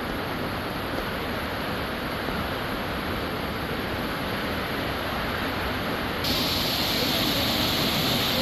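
Waterfall water rushing in a steady roar of noise, which suddenly gets louder and hissier about six seconds in.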